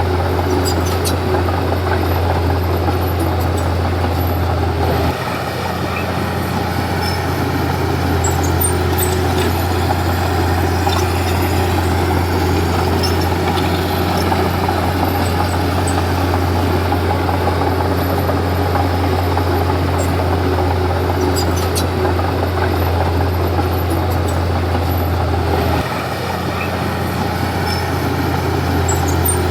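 Komatsu D31P bulldozer's diesel engine running steadily at working speed. Its low note dips briefly about five seconds in and again near the end, then picks back up.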